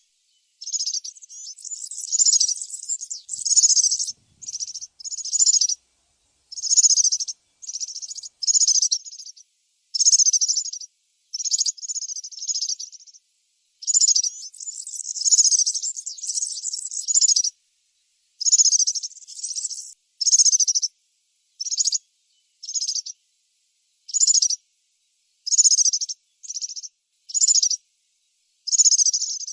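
European serin singing: a high-pitched song delivered in many short phrases, from about half a second to three seconds long, with brief pauses between them.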